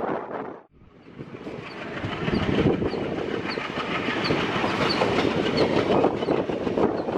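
Train running on the rails, heard from aboard a moving coach: wheels rumbling and clattering over the track. The sound drops out briefly under a second in, then fades back up and runs steadily.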